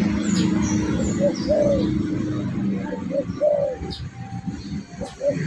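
Derkuku dove cooing, the lure call used to attract wild derkuku. It repeats a phrase about every two seconds: a couple of short coos, then a longer falling coo. Faint high chirps of small birds sound in the background.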